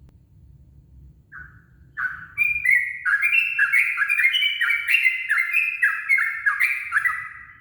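Yellow-vented bulbul (trucukan) singing: a single short note about a second in, then from about two seconds a fast, continuous run of short chattering notes that fades out near the end.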